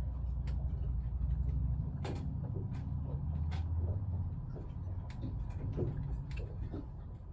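Small clicks and light knocks of hand tool work as a screw is driven through the new rubber diaphragm into the Jabsco pump's plastic housing, over a low rumble that fades after about four seconds.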